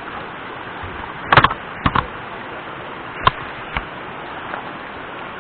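Steady rushing water, with a few scattered knocks and clicks.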